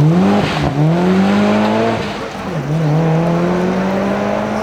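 Rally car engine accelerating hard, its pitch climbing, with quick gear changes about half a second in and again around two seconds in, then pulling up through the next gear as it gets quieter.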